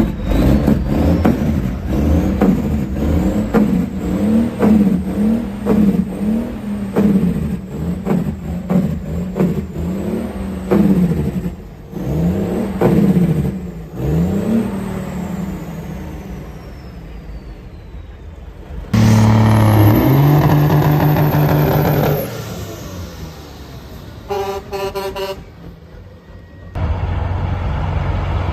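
Truck engine revved in quick repeated blips, its pitch rising and falling about twice a second. About two-thirds of the way in comes a loud horn blast of about three seconds, then a short burst of rapid horn toots.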